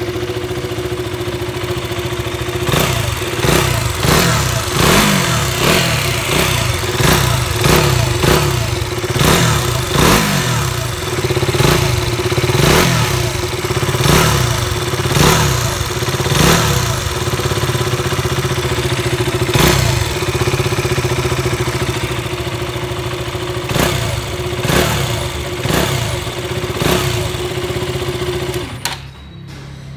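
KTM Duke 200's single-cylinder engine idling and blipped over and over, about one rev a second, with a rattle and a whistle at the end of each rev. The owner calls it a rattling noise, which the KTM service centre traced to something broken inside the exhaust silencer chamber. The engine stops about a second before the end.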